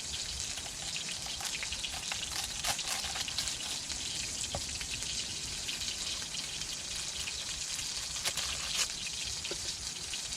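A thick burger patty frying in oil in a pan over a campfire, with a steady sizzle and scattered small pops.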